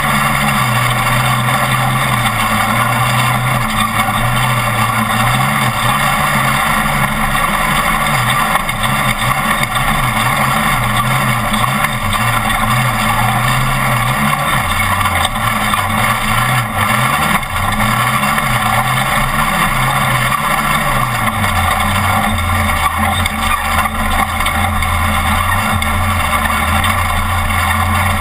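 Off-road race truck engine running hard at speed over a constant rush of road and wind noise. Its pitch holds fairly steady at first, rises and falls repeatedly with the throttle through the middle, then settles to a lower, steady pitch near the end.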